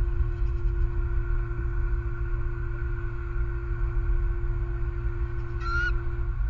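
Steady low rumble with a constant hum, like wind buffeting an outdoor camera microphone. Near the end, one short, high, wavering bird call.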